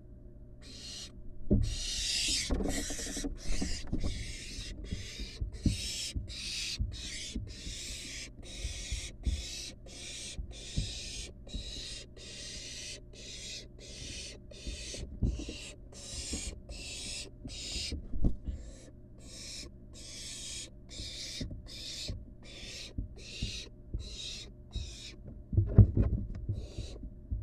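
Barn owl nestling giving rapid hissing begging calls, about two a second, excited at being fed. Scattered thumps and scuffles break in, the loudest near the end.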